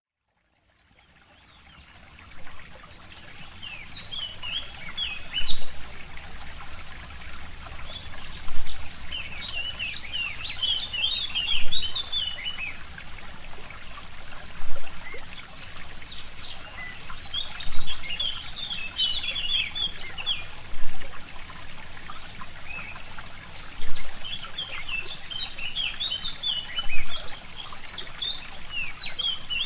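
Forest stream trickling steadily, fading in over the first two seconds, with a songbird singing phrases of rapid high chirps every few seconds. The water swells louder in brief surges about every three seconds.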